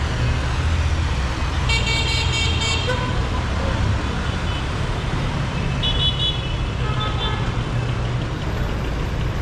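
Dense street traffic with engines rumbling steadily and car horns honking: a longer toot about two seconds in, then short ones around six and seven seconds.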